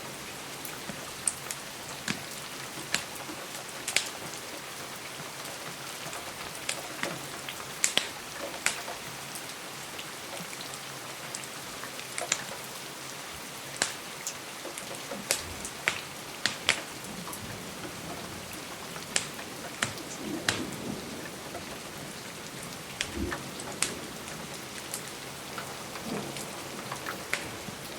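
Steady rain hissing against a window, mixed with a wood fire in a fireplace crackling: sharp, irregular pops and clicks a few times a second over the rain, with a few duller low knocks.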